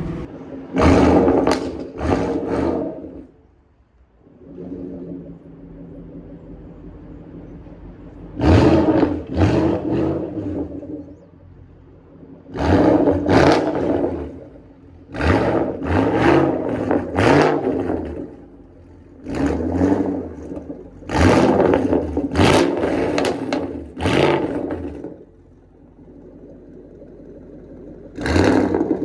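Shelby GT500 Mustang's V8 on a custom exhaust with no catalytic converters, revved in quick blips and short bursts, each rising and falling in pitch, and dropping back to a rumbling idle between them. It is loud.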